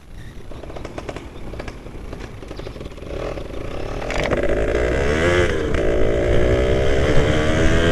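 2003 Yamaha F1ZR two-stroke motorcycle engine running: faint with scattered clicks at first, then growing louder, its pitch rising and dipping about four seconds in as it is revved, before settling into a steady run.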